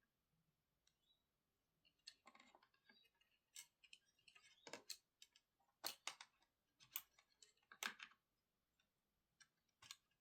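Faint, scattered clicks and light taps of small hard parts and tools being handled on a work surface during laptop disassembly. The sharpest clicks come in the middle seconds.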